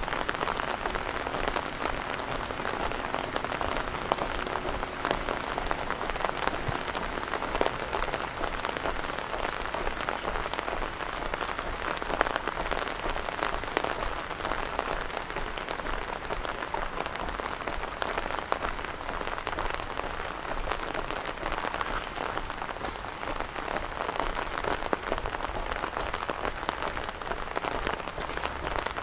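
Steady rain falling and pattering on hard surfaces: an even hiss full of tiny drop ticks.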